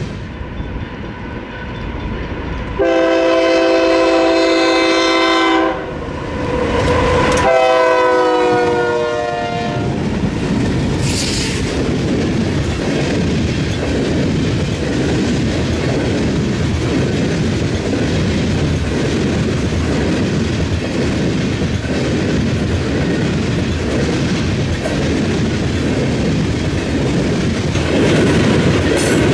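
Freight train going through a railroad diamond: the locomotive's multi-chime air horn sounds two blasts, the second dropping in pitch as the engine passes, then the cars roll by with steady wheel-on-rail clatter.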